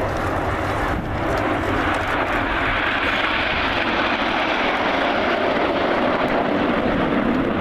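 Formation of Red Arrows BAE Hawk jets flying past, a broad jet roar that builds about a second in and then holds steady and loud.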